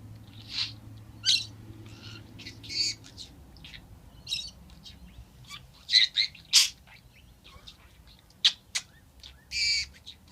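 Pet budgerigar chirping: a string of short, high chirps at irregular intervals, with a few longer calls among them.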